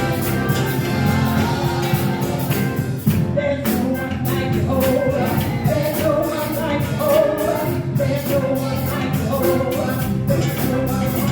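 Church praise-and-worship band playing a worship song with voices singing the melody over a steady drum and cymbal beat.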